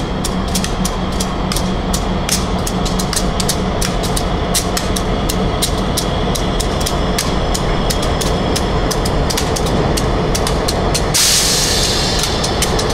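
Diesel locomotives hauling a freight train slowly past: engines running with a steady low drone, and a quick, uneven run of clicks from the wheels on the rails. About eleven seconds in, a burst of hiss rises over it.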